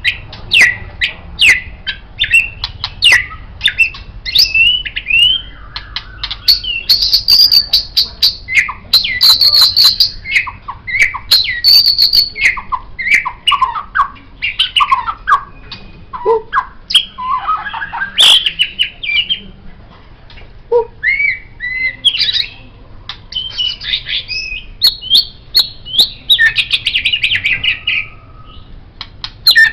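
White-rumped shama (murai batu) singing a long, varied song: rich whistled phrases, quick gliding notes and sharp clicking strokes, one phrase after another.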